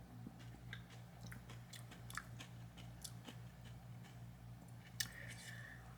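A person chewing a crunchy sandwich on a roll close to the microphone: quiet, with faint scattered crunches and mouth clicks. A steady low hum runs underneath.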